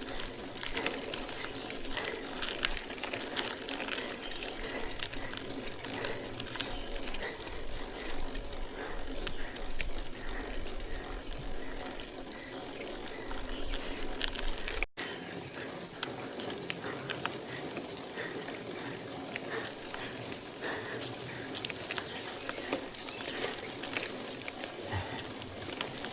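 Riding noise of a 1984 Peugeot steel bicycle on the road: a steady rush of tyre and wind noise with many small clicks and rattles. The sound breaks off for an instant about fifteen seconds in.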